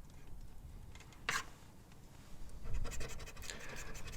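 Scratch-off lottery ticket being scratched: one short scrape about a second in, then a run of quick scratches from about three seconds in.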